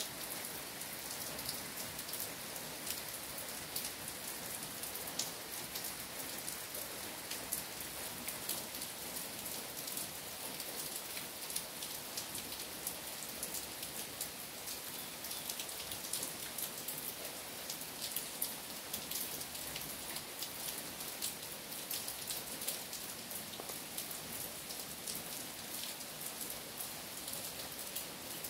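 Steady rain falling on trees and puddled ground: an even hiss with a dense patter of individual drops.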